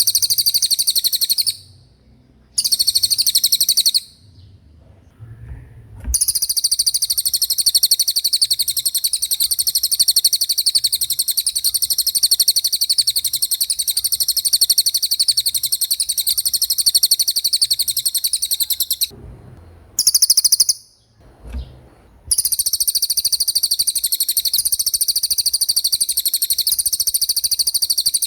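Cililin songbird singing a very fast, high rolling trill in long unbroken runs, with a few short pauses near the start and about two-thirds of the way through.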